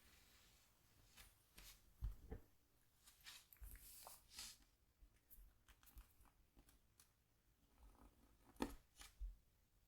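A stylus scratching the coating off a scratchboard in short, irregular strokes, faint, with a couple of sharper taps about two seconds in and again near the end.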